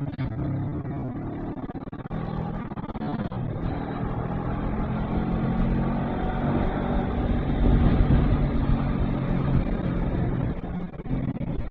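Honda NX500 parallel-twin engine running under way with low wind rumble, growing louder about two-thirds through and easing off again.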